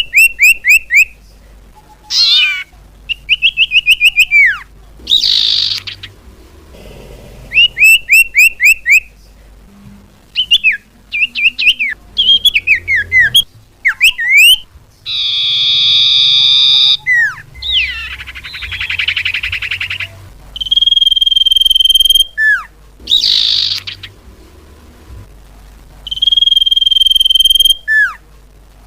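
Lure recording of cipoh (common iora) calls: quick runs of high whistled notes and chirps, harsh rasping bursts, a buzzy call near the middle, and long steady whistles in the second half.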